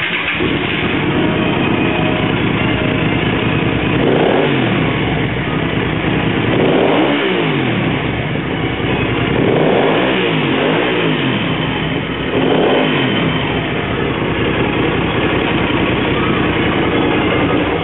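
Hyosung GV250 Aquila's 250 cc V-twin engine idling through loud aftermarket custom exhaust pipes, blipped up and back down about five times between roughly four and thirteen seconds in.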